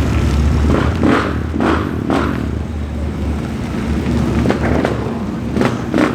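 Deep, steady rumble of a big car engine at low revs, with several short, sharper bursts of noise over it.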